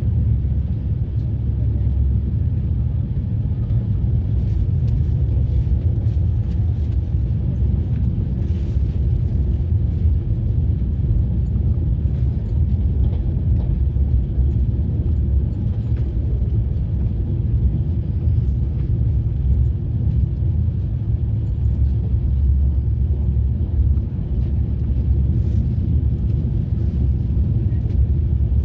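Steady low rumble of a moving train, heard from on board, with faint scattered clicks and rattles over it.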